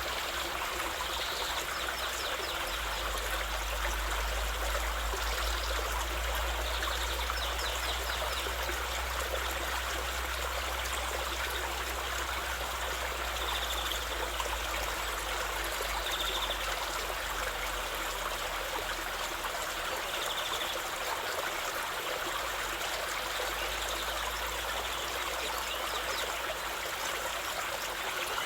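Flowing stream, water running and trickling steadily.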